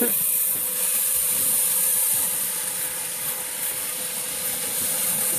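Converted garbage disposal with wire flails bolted to its shaft running steadily, threshing hulless oat heads fed into its funnel: a steady high hiss with a faint steady hum.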